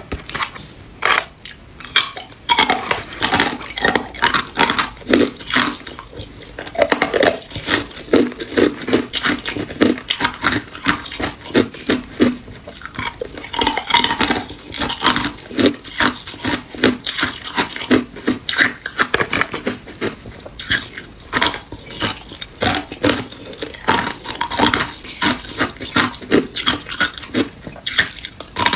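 Hard ice cubes being bitten and chewed: a dense run of sharp crunches, several a second.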